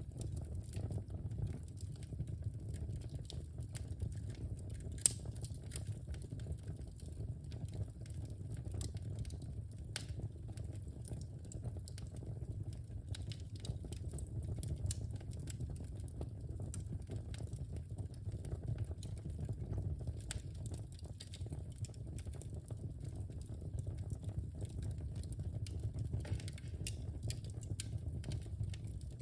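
Wood fire burning in a fireplace: a steady low rumble of the flames with frequent small crackles and snaps, and one sharper pop about five seconds in.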